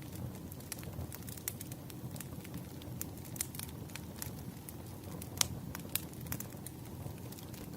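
Firewood burning, a steady low rumble of flame with irregular sharp crackles and pops, the loudest pop about five and a half seconds in.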